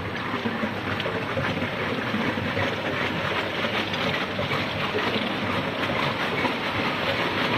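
Tube ice machine plant running: a steady mechanical din with water noise and a constant light rattle of small impacts.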